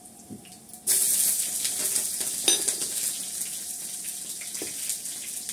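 Green chillies dropped into hot oil in a frying pan, setting off a sudden loud sizzle about a second in that keeps going and eases slightly. A short sharp click cuts through the sizzle partway through.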